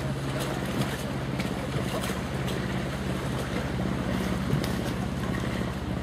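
Strong wind rushing over and buffeting the microphone, with a steady low hum underneath.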